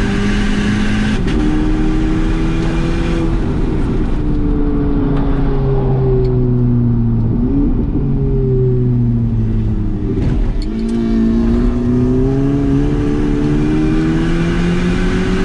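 VW Polo GTI's turbocharged four-cylinder engine heard from inside the cabin on track. It revs up with two quick gear shifts in the first few seconds, falls in pitch off the throttle through the middle, then pulls steadily higher again through the last third.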